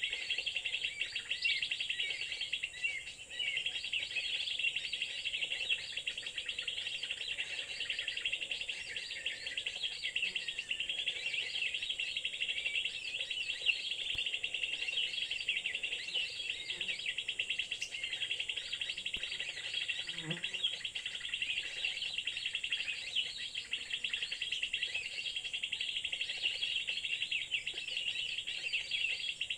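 Many small birds chirping and twittering rapidly and continuously, over a steady high insect drone.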